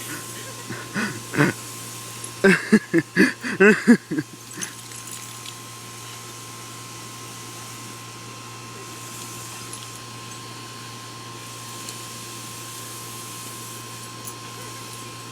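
A dog barking: a couple of short barks about a second in, then a quick run of about seven loud barks, after which the barking stops and only a steady hiss remains.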